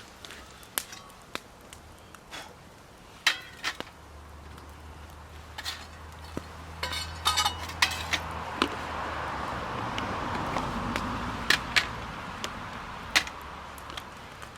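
Scattered clicks and knocks of utensils being handled, with a few ringing clinks near the middle, then a rushing noise that swells and fades in the second half.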